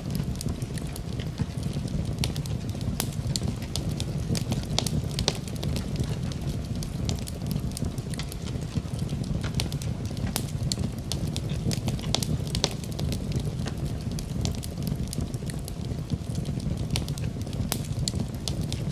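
Wood fire burning in a fireplace: a steady low rumble of flames with frequent irregular sharp crackles and pops from the burning wood.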